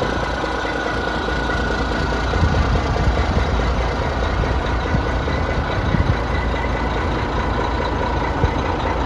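Mack diesel engine of a 1990 Mack CH613 tandem-axle truck running steadily, a deep continuous engine sound with a few small knocks.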